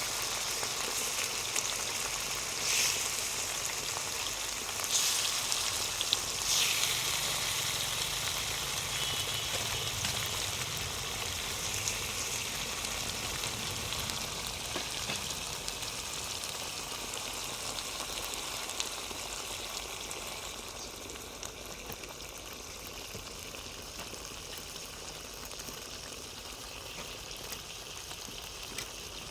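Food frying in hot oil: a steady sizzle with a few louder crackles in the first several seconds, settling a little quieter after about twenty seconds.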